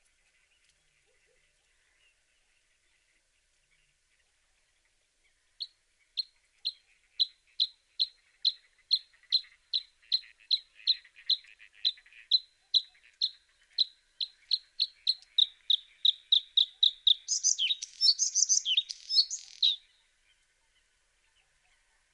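A bluethroat singing: a long series of short, sharp, repeated high notes that quickens as it goes, ending in a burst of rapid, varied twittering. The song starts a few seconds in and stops shortly before the end.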